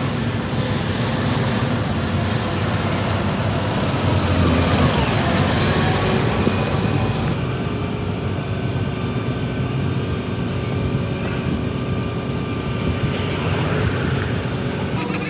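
Heavy diesel truck engine running, typical of a concrete mixer truck on a jobsite. The sound changes abruptly about halfway through.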